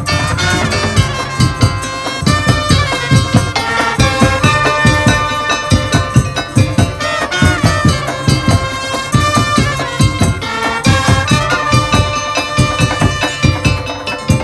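Madurese musik tong-tong ensemble playing: a steady, rapid beat of drums and percussion under a sustained melody line.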